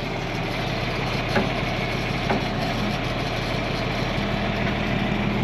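John Deere 4000 tractor engine idling steadily, with a couple of faint metallic ticks.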